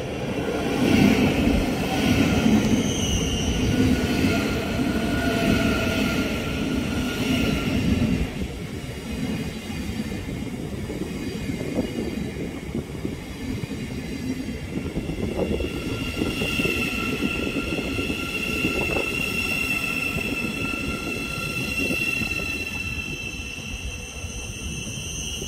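A train running along the track close by, loudest in the first eight seconds, with several steady high-pitched whining tones held over the rumble.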